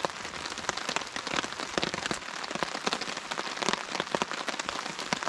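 Steady rain, with many drops tapping irregularly on a tarp overhead.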